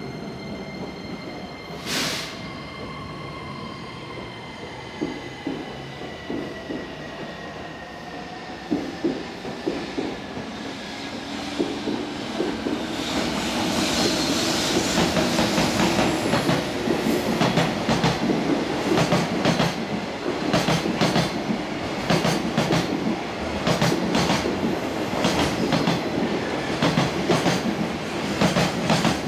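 High-speed freight train passing: a faint high whine gently falling in pitch at first, then wheels clattering over rail joints. The clatter grows louder about halfway through and runs on in a quick, even rhythm as the long string of freight wagons rolls by.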